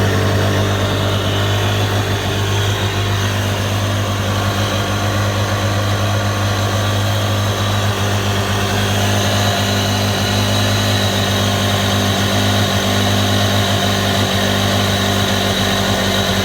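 Yamaha 701 two-stroke twin-cylinder jet ski engine running steadily at a constant speed, with a higher whine coming up about halfway through.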